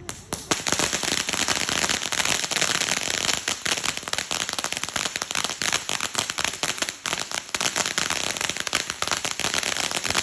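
Fireworks crackling: a dense, rapid run of small sharp pops that starts suddenly and keeps going without a break.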